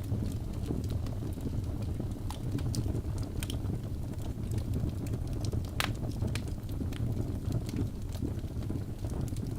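Birch logs burning in a fireplace: a steady low rumble of flame with scattered sharp crackles and pops, one louder pop a little before six seconds in.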